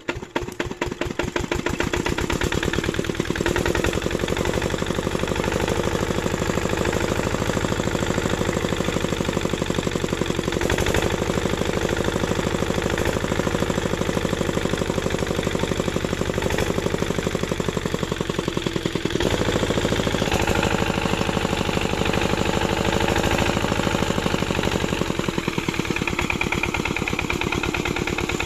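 8 HP single-cylinder diesel pump-set engine running with a rapid, even thudding beat; its strokes speed up and grow louder over the first couple of seconds as it comes up to speed, then it runs steadily.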